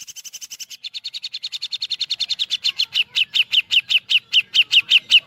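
Brown-cheeked bulbul (cucak jenggot) giving a long rapid-fire run of sharp chirps in the woodpecker-like 'tembakan' style. The notes start at about ten a second and gradually slow to about four a second while growing louder, each note sliding down in pitch, and the run stops abruptly at the end.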